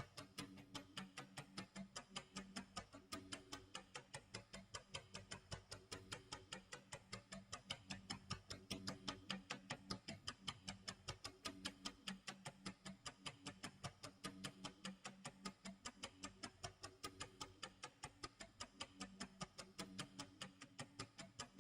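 Quiet tick-tock clock sound effect: fast, even ticks over a faint, low-pitched repeating tone pattern.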